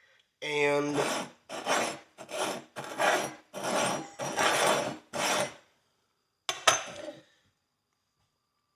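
Metal pick scraping dirt and grime out of an old rusty pony horseshoe: about six rasping strokes in a row, then a sharp knock.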